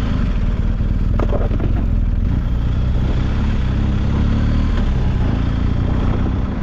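BMW GS adventure motorcycle running steadily while riding a dirt road, with a few short clatters about a second in.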